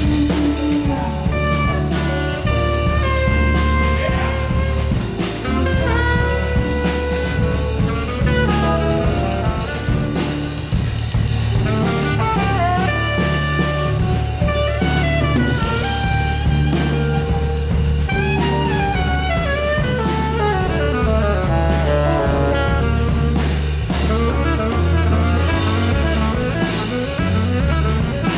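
Live jazz-fusion band of piano, saxophone, electric guitar, electric bass and drum kit playing. A lead line weaves fast rising and falling runs over a steady bass line and busy drumming.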